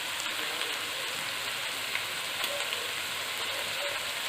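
Ginger-garlic paste and whole spices sizzling steadily as they fry in butter in a pan.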